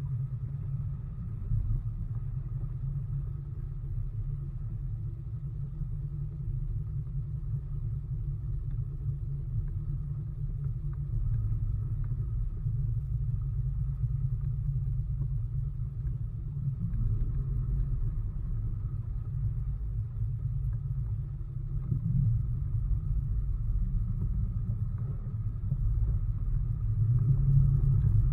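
Bass boat running on its new outboard motor: a continuous low rumble with a faint steady whine above it, growing somewhat louder near the end.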